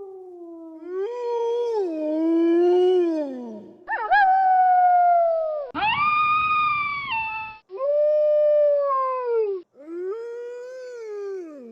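Wolves howling: a run of about five long howls, one after another, each rising and then sliding down in pitch, some overlapping. The calls break off abruptly between howls.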